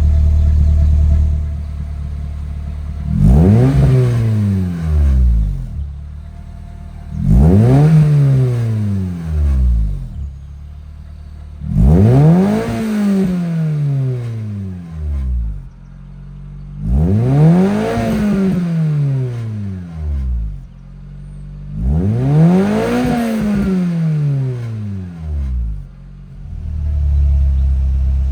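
Toyota AE86 with a Tec Arts x Fujitsubo muffler and a test pipe in place of the catalytic converter, revving five times from idle. Each blip rises quickly in pitch and falls back to a steady idle, about every five seconds.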